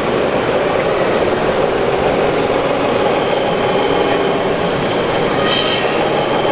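Scale RC construction machines' electric motors and gearing running with a steady whirr, with a brief hissing squeal about five and a half seconds in.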